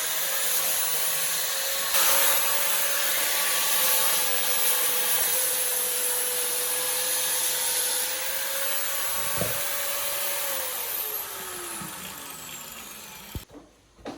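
Electric power tool motor running steadily at high speed, then switched off and winding down with a falling pitch, stopping about a second before the end.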